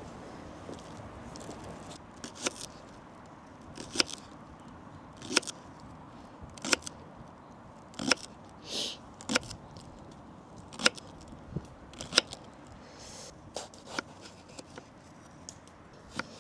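A green onion being cut into pieces, one sharp snip or chop about every second and a half, with a brief rustle partway through.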